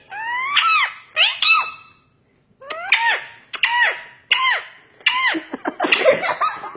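Pet parrot making a string of short, high squeaky calls, each rising and then falling in pitch, with a brief pause about two seconds in.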